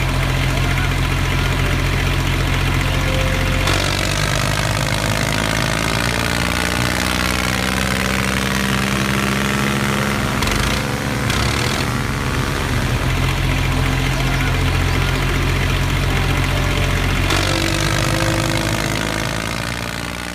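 Tractor-style engine running steadily at a low, even note. Its sound shifts about four seconds in and shifts back near the end.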